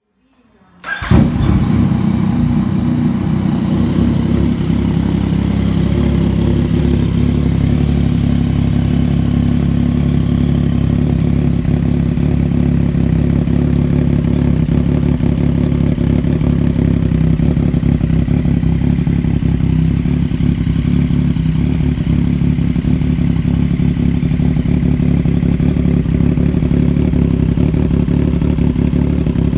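Yamaha MT-09's three-cylinder engine starting from cold about a second in, then idling steadily through a custom exhaust on the stock headers.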